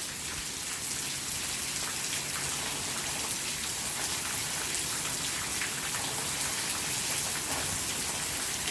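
Steady heavy rain falling and pattering on surfaces, a dense hiss with many small drop ticks.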